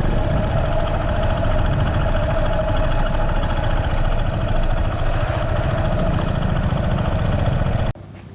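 Motorcycle engine running steadily with a fast, even firing pulse, cutting off abruptly near the end.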